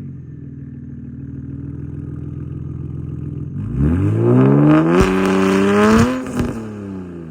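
Single-turbo BMW N54 inline-six running steadily at low revs, then about four seconds in it revs up hard for about two seconds with a few sharp cracks near the top, and the revs fall away as the throttle is lifted.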